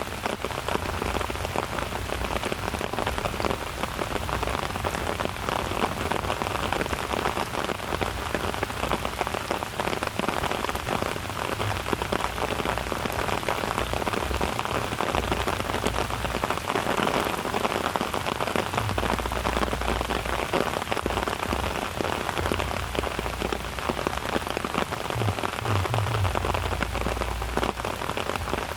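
Steady rain falling, a dense even patter of drops hitting surfaces.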